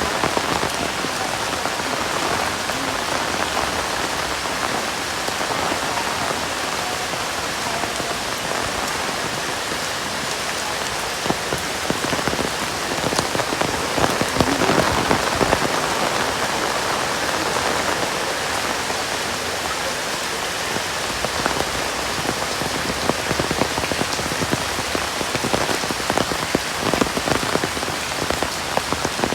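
Heavy rain falling steadily, with many sharp drop impacts ticking on nearby surfaces; it swells a little about halfway through.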